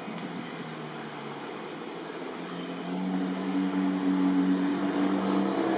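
A motor vehicle's engine humming steadily and growing louder, as if approaching, with a brief high squeal about halfway through.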